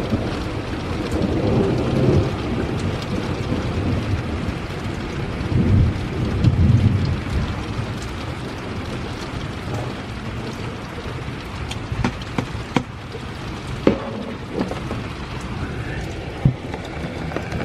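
Steady rain falling, with thunder rumbling low and rolling through the first half and then easing off. In the second half a few sharp drops land close by.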